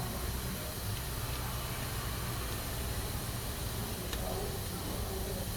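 Pressure cooker hissing steadily as steam escapes through its valve, over a steady low rumble.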